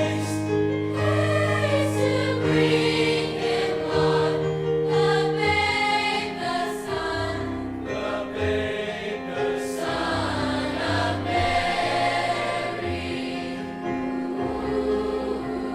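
A large high school choir singing in parts, holding long sustained notes.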